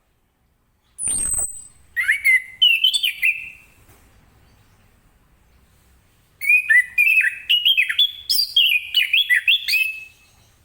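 Orange-headed thrush (anis kembang) singing: a sharp, high falling note about a second in, then two bursts of fast, varied warbling song, the second one longer.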